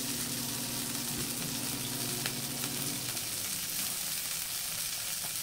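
Shredded collard greens sizzling steadily as they sauté in hot olive oil and garlic in a cast-iron pan.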